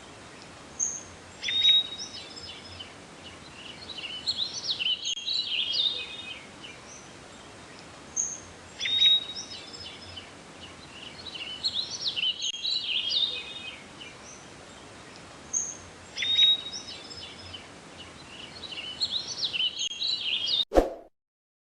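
Birdsong over a steady background hiss: a few high whistles, one rising and then held, followed by a run of rapid chirps, the same phrase recurring about every seven seconds. It cuts off suddenly near the end.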